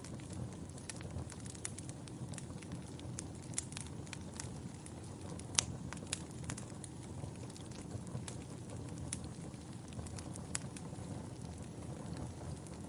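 Wood fire burning in a fireplace: a steady low rumble of flame with irregular crackles and pops from the burning logs, a few louder sharp pops among them.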